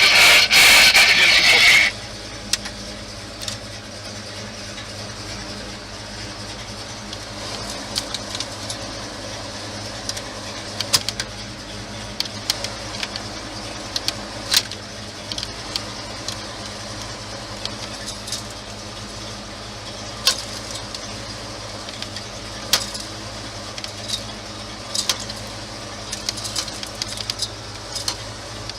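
A loud burst of hissing noise cuts off about two seconds in. Then the 1969 Ford Mustang Mach 1's engine runs steadily at idle under scattered clicks and light rattles.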